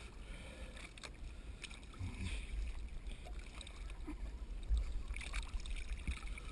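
Low, steady rumble of water and wind against the camera's microphone at the surface, with scattered small knocks and a louder bump a little after halfway.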